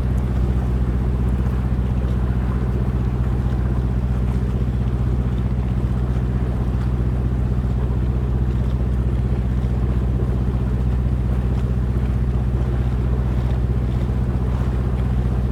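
Boat engine running steadily under way, a constant low drone, heard from on board.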